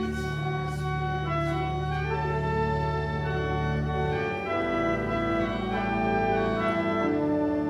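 Church organ playing slow, sustained chords that change every second or two over a held bass note.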